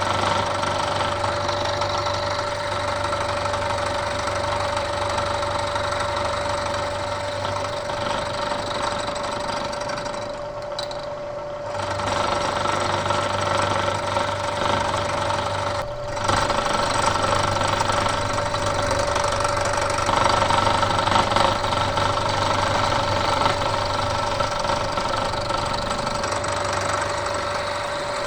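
Bridgeport milling machine with an end mill cutting into a metal block, running steadily with a whine in several fixed pitches. The low motor hum drops out for a few seconds around ten seconds in, and the sound dips briefly near sixteen seconds.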